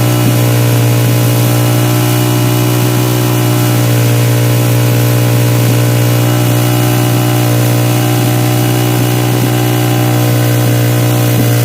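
Suzuki Satria FU motorcycle engine running through a DBS aftermarket exhaust, holding one steady speed with an even, unchanging note.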